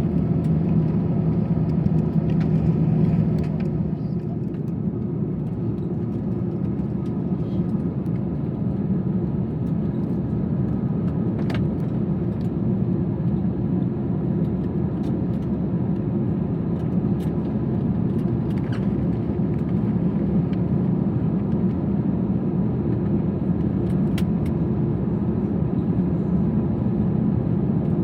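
Steady low rumble and hum inside the passenger cabin of an Airbus A321 on the ground before takeoff. A lower hum drops away a few seconds in, and a few faint clicks sound over the rumble.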